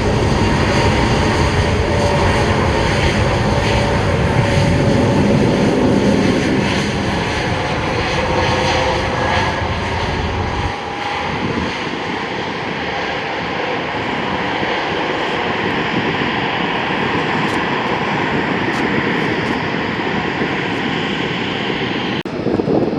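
Jet airliner engines running loud and steady. A deep rumble drops away about eleven seconds in, leaving a higher rushing hiss.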